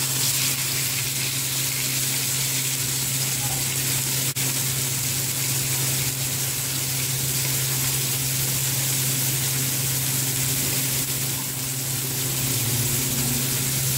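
Raw chicken pieces sizzling in hot oil in an aluminium frying pan, a steady hiss over a low steady hum, breaking off for an instant about four seconds in.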